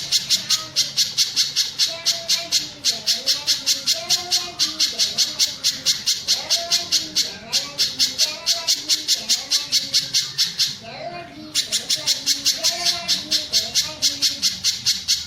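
Mountain spiderhunter calling: a rapid, very regular string of sharp, high notes at about five a second, pausing briefly about eleven seconds in, with softer, lower bird calls beneath.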